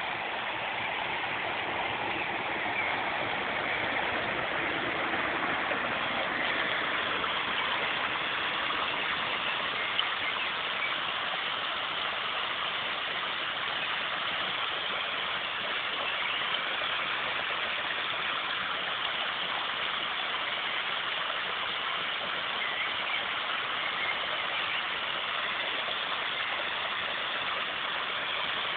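A steady outdoor rushing noise with no pitch, strongest in the upper-middle range and even in level throughout, with a single faint tick about ten seconds in.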